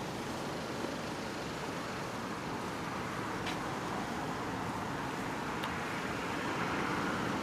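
Steady road traffic noise, growing a little louder near the end.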